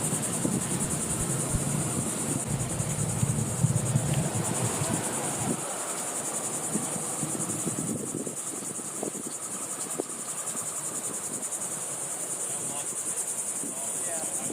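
Steady high-pitched chorus of insects such as crickets, with a low rumble underneath that fades out about five seconds in.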